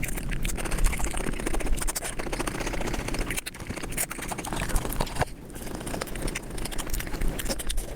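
Close-miked eating sounds played back sped up, a rapid run of wet chewing, smacking and crunching clicks.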